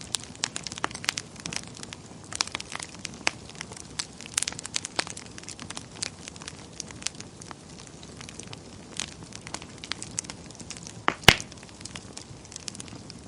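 Wood fire burning in a fireplace, crackling with frequent sharp pops at uneven intervals over a soft steady hiss. One louder pop comes near the end.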